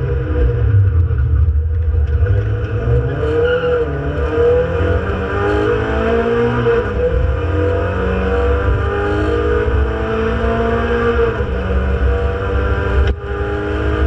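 Renault Clio Sport 2.0 182's 2.0-litre four-cylinder engine at race pace, heard from inside the cabin, climbing in pitch under acceleration and dropping back at each gear change or lift, with a brief cut about thirteen seconds in.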